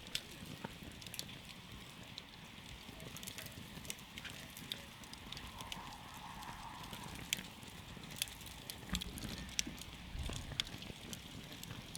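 Wood campfire crackling: irregular sharp pops and snaps, a few louder ones in the second half, over the low steady noise of the burning.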